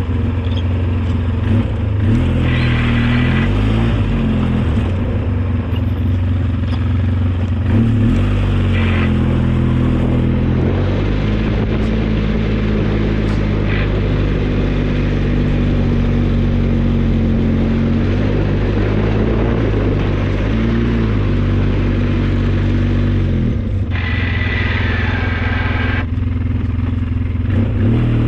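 Engine of an old snowplow vehicle running under load while plowing, its speed rising and falling. A brief hissing noise joins it near the end.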